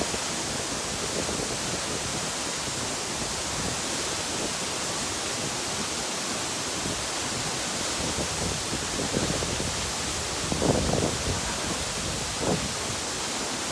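Nachi Falls, a tall waterfall, sending down a steady, unbroken rush of falling water. A few brief low bumps come near the end.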